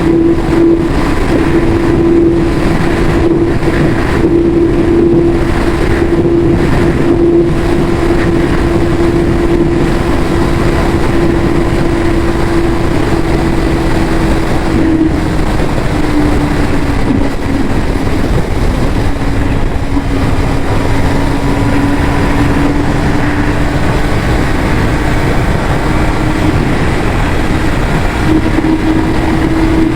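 Yamaha YZF-R6 inline-four engine running through its stock exhaust at fairly steady revs over a steady rushing noise. Its pitch sags a little about halfway through and rises back near the end.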